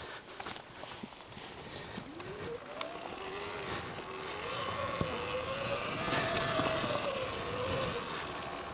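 Surron Ultra Bee electric dirt bike pulling away: its motor whine rises in pitch about two seconds in, then wavers up and down with the throttle over growing trail noise. A few knocks and clicks come before it.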